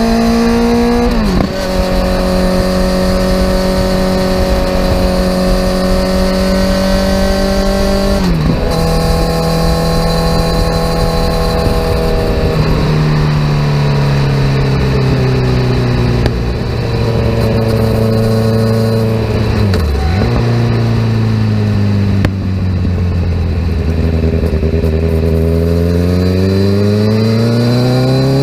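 Kawasaki Z900 inline-four running through a CS Escapamentos full aftermarket exhaust while riding. The engine note holds steady, drops sharply about a second in and again about eight seconds in, sinks slowly through the middle, and climbs again as the bike accelerates in the last few seconds.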